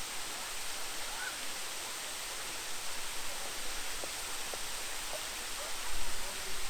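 Waterfall rushing steadily: a constant, even hiss of falling water. A brief low rumble comes about six seconds in.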